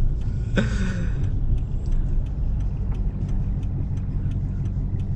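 Car running on the road, heard from inside the cabin: a steady low engine and road rumble. A brief higher-pitched sound comes about half a second in, and faint regular ticks run underneath.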